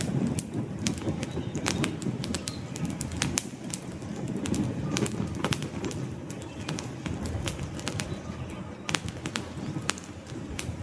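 Wood fire burning, with many sharp crackles and pops at irregular intervals over a low, unsteady rumble of flames.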